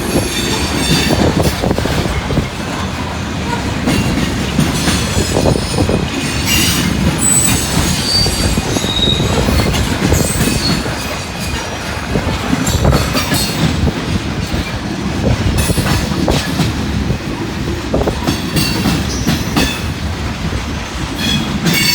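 Long, loaded grain train of covered hopper cars rolling past close by. Its steel wheels clack over the rail joints, with brief high-pitched wheel squeals now and then.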